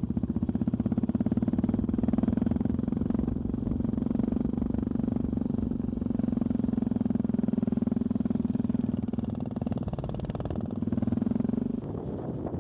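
Yamaha XT660Z Ténéré's single-cylinder four-stroke engine running at a steady pitch. It eases off about ten seconds in, picks up again briefly, then drops away near the end.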